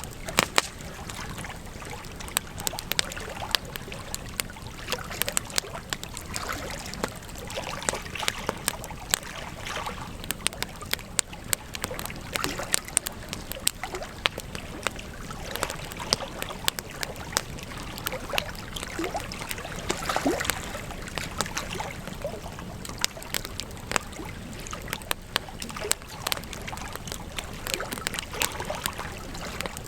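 Campfire burning: irregular sharp crackles and pops of burning wood over a steady low hiss.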